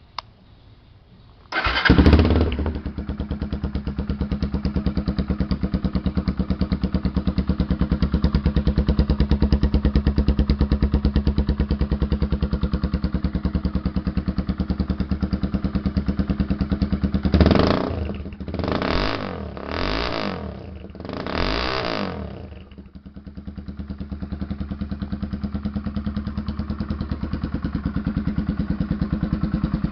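Honda Twister single-cylinder 250 cc motorcycle engine starting about a second and a half in, then idling loud and steady. Past the middle the throttle is blipped four times in quick succession before it settles back to idle.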